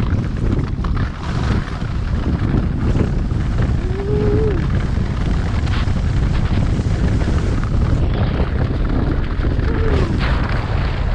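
Strong wind buffeting the microphone while skiing fast across lake ice, a steady heavy low rumble. Two short squeaky tones come through, about four and ten seconds in.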